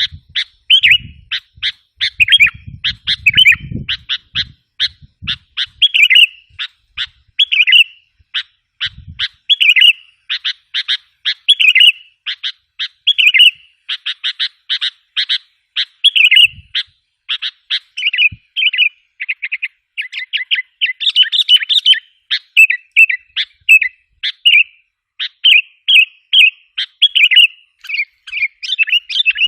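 Sooty-headed bulbuls calling in a fast, unbroken string of short, bright chirping notes, several a second. This is a bulbul lure-call recording, used to draw wild bulbuls in.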